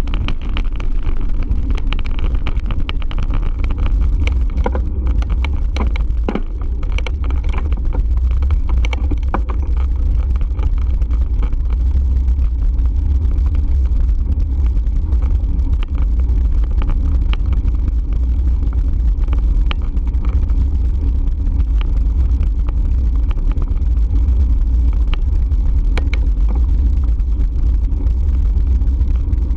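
Steady low rumble of wind and riding noise on the microphone of a moving bike, with scattered small clicks and rattles.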